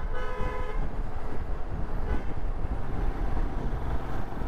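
Royal Enfield Himalayan motorcycle riding along: steady engine rumble mixed with wind buffeting on the mic. A vehicle horn sounds briefly near the start.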